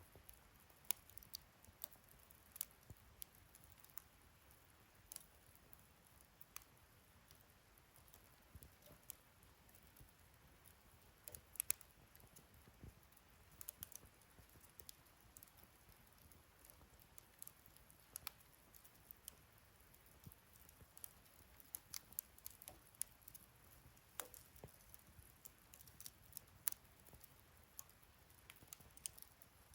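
Wood fire crackling in a fire-pit stand: irregular sharp pops and snaps, with the loudest couple of snaps about twelve seconds in, over a faint low hiss.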